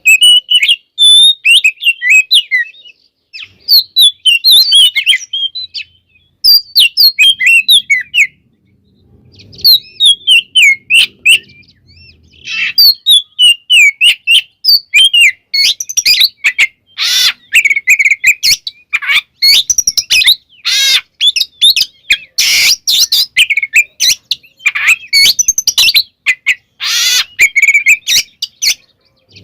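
Oriental magpie-robin (kacer) singing loudly and almost without pause, a rapid run of varied whistled phrases with brief gaps. The song grows denser in the second half, with harsh rasping notes mixed in among the whistles.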